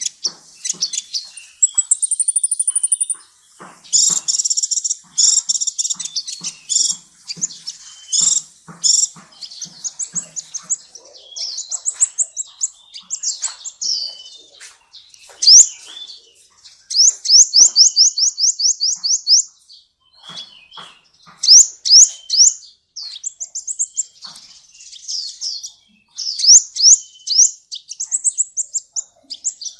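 A sunbird singing: rapid, very high-pitched chattering trills and runs of quick rising notes, in short bursts separated by brief pauses.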